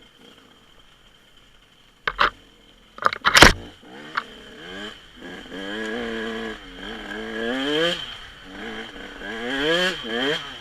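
Dirt bike engine revving, its pitch rising and falling over and over, after a few sharp, loud knocks a couple of seconds in.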